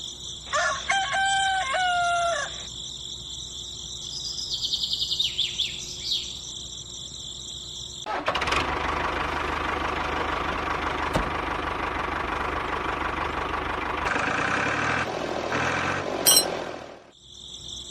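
A rooster crows once near the start, with a few short chirps after it. About halfway through, a steady mechanical running noise with a constant hum starts, runs for about nine seconds, and cuts off suddenly near the end.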